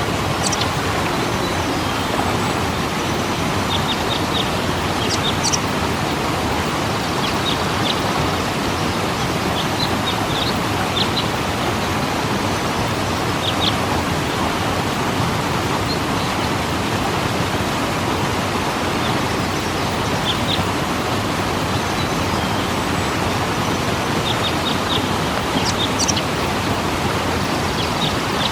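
Waterfall pouring in a steady, even rush, with scattered short high bird chirps over it.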